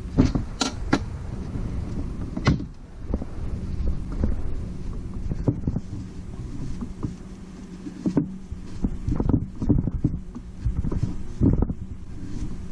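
Hand work on metal engine parts during valve lapping: irregular scraping, rubbing and clicking as a valve is worked and handled in the cylinder head, over a steady low hum.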